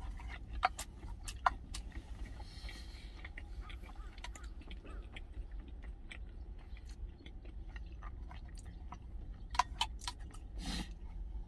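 A man chewing a mouthful of food with his mouth closed: soft, irregular wet clicks and crunches, a few sharper ones now and then, over a steady low hum.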